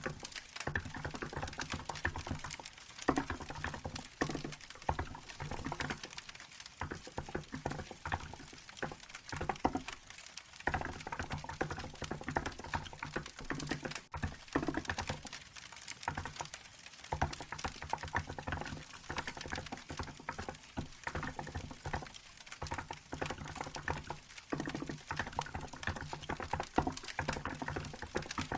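Steady typing on a Hansung GK868B keyboard with milk-white keycaps: a continuous run of key clicks with brief pauses. A crackling wood fire can be heard underneath.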